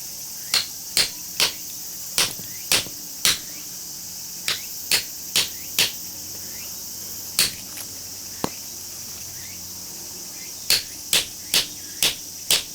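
Hammer blows on metal while knocking apart a small transformer's iron core: sharp metallic strikes in runs of three to five, about two a second, with short pauses between runs.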